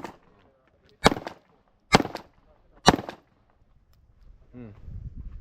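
Three single gunshots about a second apart, each a sharp crack with a short tail, followed by low voices near the end.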